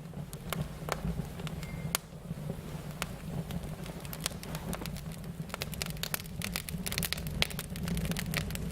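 Wood fire crackling and popping: many sharp irregular snaps over a steady low rumble of flame, growing busier about halfway through.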